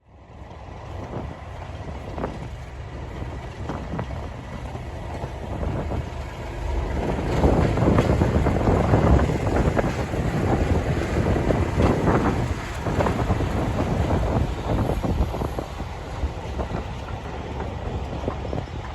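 English Electric Class 37 diesel locomotives working hard at full power, their V12 diesel engines giving a continuous heavy rumble that builds to its loudest about halfway through and then eases slightly.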